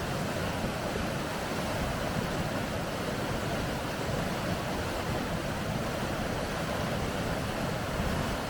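Rushing river rapids: a steady, unbroken roar of water.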